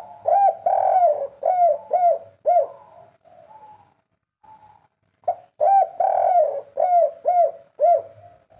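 Spotted dove (derkuku) cooing: two repeated song phrases, each of several arched coos, a longer one followed by three or four quicker ones, with a pause of a couple of seconds between the phrases.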